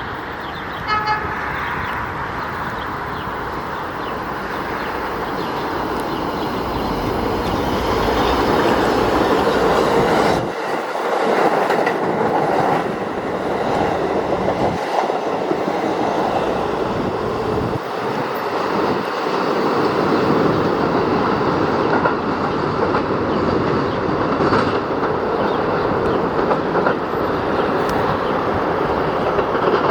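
Staten Island Railway subway train with a short horn sounding about a second in, then the steady rumble and clatter of its wheels and motors on the rails, building up and staying loud.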